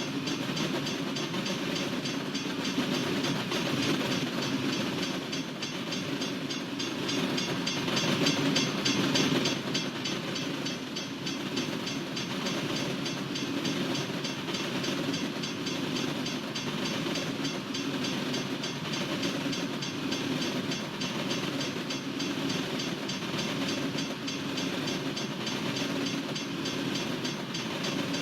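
Norfolk Southern freight train's cars rolling past at steady speed: a continuous rumble of wheels on rail, a little louder about eight to ten seconds in.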